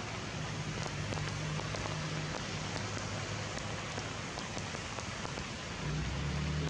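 Steady rain falling on forest leaves, with scattered sharp drip ticks through it. A low hum runs underneath and grows louder near the end.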